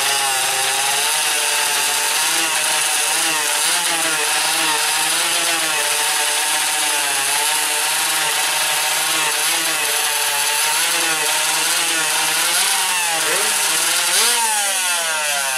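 Two-stroke 125cc drag-racing motorcycle engines held at high revs at the start line, the pitch wavering as the throttles are worked, with sharper revs rising and falling near the end.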